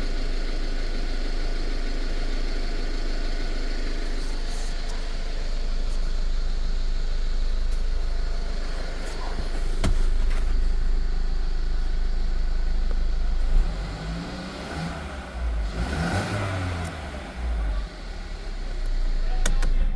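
Mercedes-Benz M274 turbocharged four-cylinder petrol engine idling evenly. About 14 seconds in the sound becomes quieter and uneven.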